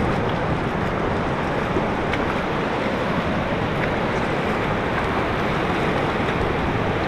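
Steady noise of surf breaking on the beach, mixed with wind buffeting the microphone.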